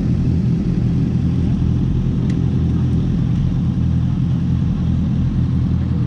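Aprilia sport bike's engine idling steadily while the bike stands still.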